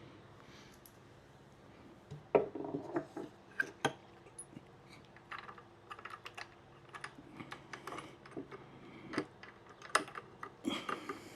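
Irregular clicks, knocks and metallic clinks of tools and mounting hardware being handled while a fuel tank is fitted and bolted onto an antique stationary engine, starting about two seconds in.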